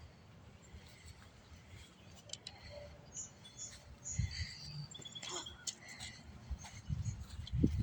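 Birds chirping in scattered short calls, with bursts of low wind rumble on the microphone.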